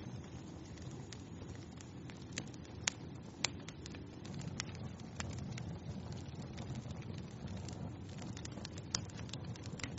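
Wood fire burning in a fireplace: a steady low rush of flame with scattered sharp crackles and pops, the loudest a few seconds in and again near the end.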